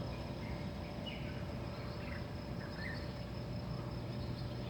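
Dawn ambience: a steady high insect drone, likely crickets, with a few short bird chirps about one, two and three seconds in, over a low steady rumble.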